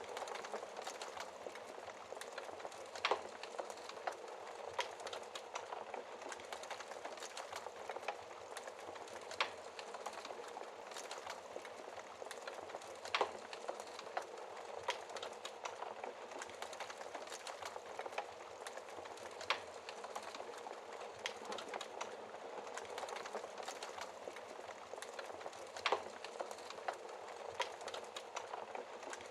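Wood fire burning in a fireplace, heard through its glass door: a steady hiss with frequent small crackles and a louder pop every few seconds.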